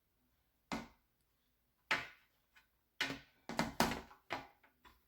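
A few sharp knocks and clatters of hard objects being handled and set down: one about a second in, another about two seconds in, then a quicker run of knocks near the end.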